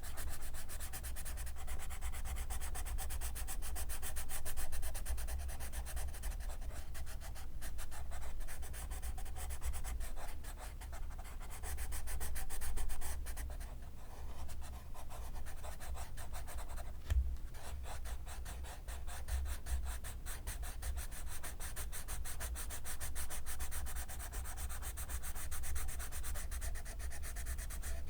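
Graphite pencil scratching steadily across paper in close-up, continuous strokes of writing or sketching, with one soft knock a little past the middle.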